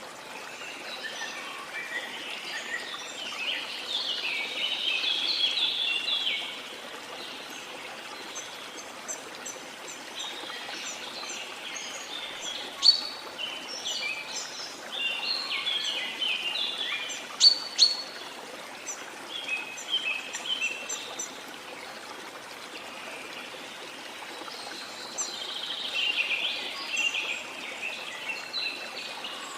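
Rain forest ambience: a river flowing steadily under bursts of rapid, high bird chirping and song that come and go, with a couple of sharp clicks in the middle.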